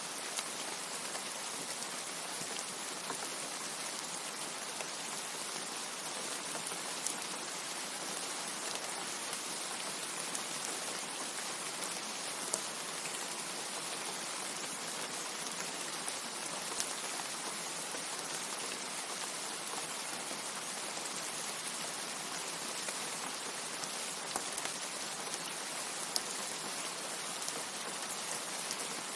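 Steady heavy rain: an even, unbroken hiss with scattered sharper ticks of single drops landing.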